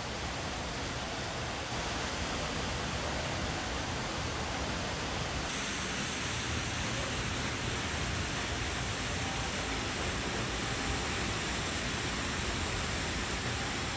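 Waterfall running in early-spring thaw, a steady rush of falling water past ice. The noise brightens slightly about five seconds in.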